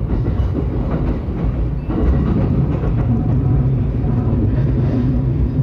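Yokosuka Line electric commuter train running on the rails: a steady low rumble, joined about two seconds in by a humming tone.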